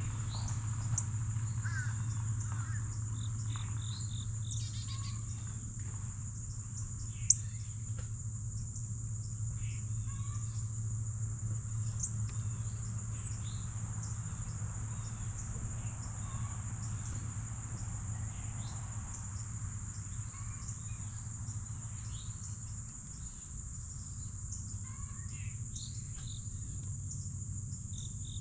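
A steady, high-pitched insect drone runs on without a break, with short bird chirps and calls scattered through it over a low steady hum. One sharp tap stands out about seven seconds in.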